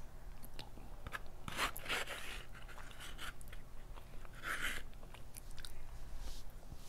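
Close-up eating sounds of red beans and rice: soft chewing and wet mouth noises with small clicks, and a plastic spoon scraping the small side cup about four and a half seconds in.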